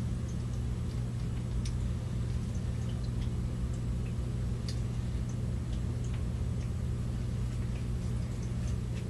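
Sparse faint clicks and ticks of small seed packets being handled, over a steady low electrical hum.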